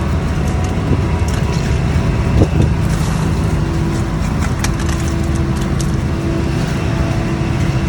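Scallop fishing boat's engine running steadily with a deep, even drone, with a few light knocks partway through.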